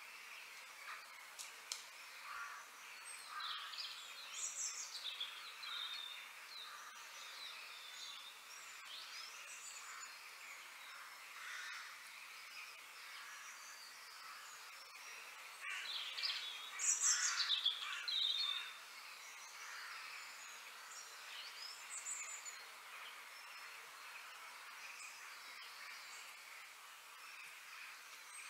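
Wild birds chirping and calling, many short sweeping calls overlapping, with a louder flurry of calls a little past the middle.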